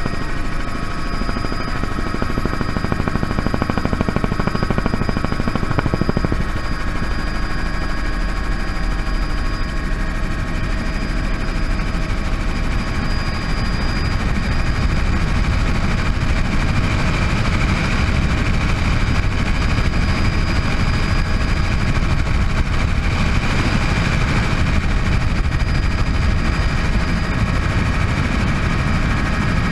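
Bell 206 JetRanger helicopter in flight: a steady high turbine whine over the rapid chop of the rotor blades.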